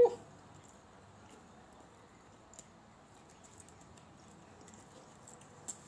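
A person chewing a mouthful of chicken sandwich, with faint wet mouth clicks and one sharper click near the end. A hummed "mmm" ends right at the start.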